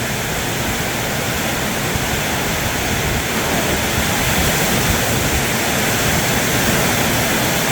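Heavy wind-driven rain drumming on a metal roof, a steady, deafening roar.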